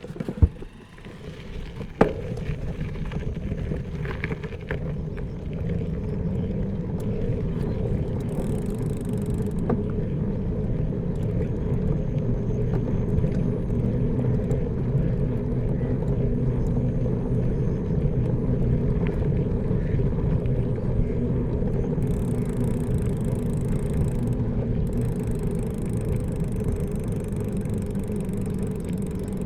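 Steady low road rumble while riding along, with two sharp knocks about half a second and two seconds in.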